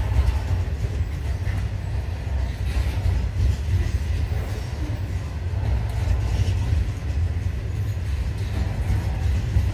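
Freight train's hopper wagons rolling past, steel wheels on the rails making a steady low rumble.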